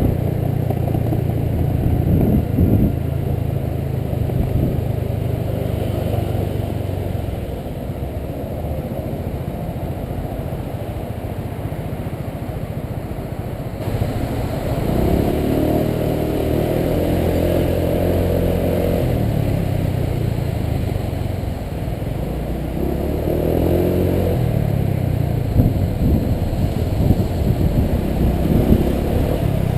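Honda PCX 125 scooter's single-cylinder engine running during a ride through slow traffic, rising in pitch as it speeds up about halfway through and again a few seconds later.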